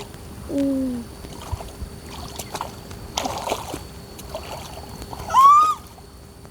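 Water splashing and sloshing as people wade after fish in a flooded field, with a noisy splash about three seconds in. Two short wordless cries stand out: a low falling one about half a second in, and a louder, higher cry that rises then falls near the end.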